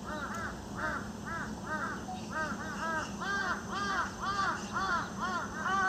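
Birds calling in a rapid run of short, arched calls, about three or four a second, with more than one bird overlapping. A second, higher-pitched series joins about three seconds in.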